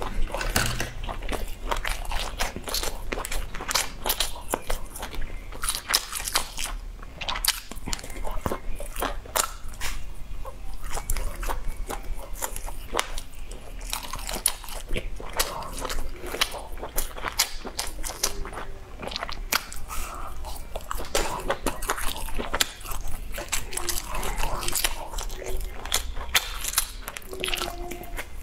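Close-miked eating sounds: a person biting into and chewing spiced skewered sausages and other grilled skewer food, a dense, irregular run of sharp mouth clicks and chews.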